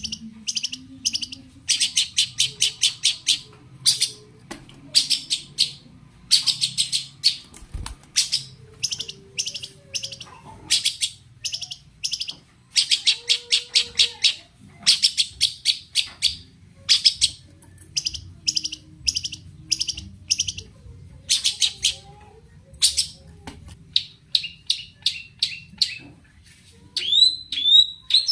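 Long-tailed shrike (cendet) singing: phrases of rapid, harsh chattering notes, each about a second long and repeated with short gaps. Near the end the song turns to shorter whistled notes.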